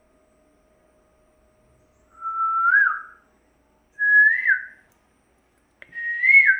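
A person whistling three separate notes, each about a second long. Each note is a little higher than the one before and bends up then down at its end.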